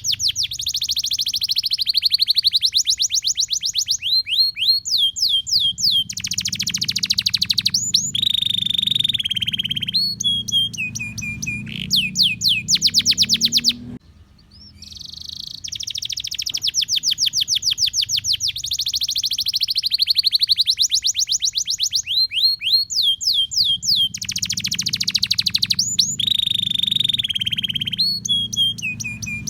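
Domestic canary singing a long, vigorous song of rapid high trills and sweeping whistled notes. The same run of phrases breaks off about halfway through and starts over unchanged, so the song is a looped recording.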